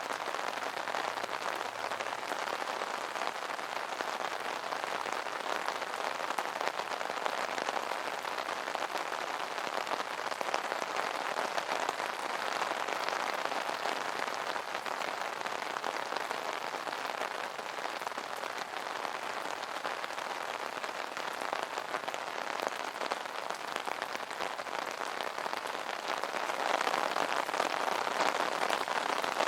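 Steady rain drumming on an umbrella's fabric canopy, a dense patter of drops that grows slightly heavier near the end.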